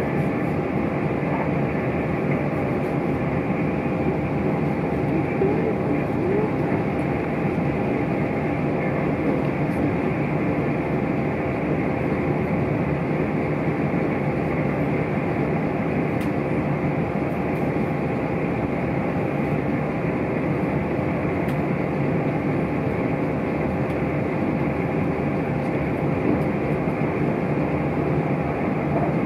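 Steady running noise of an electric passenger train heard from inside the carriage at speed: a continuous rumble of wheels on rails with a faint steady hum, unchanging throughout.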